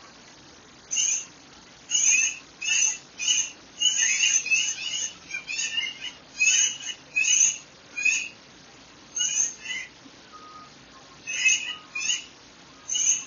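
Birdsong: a bird repeating short, sharp high calls in quick runs of several a second, with short pauses between runs, over a faint steady background hiss.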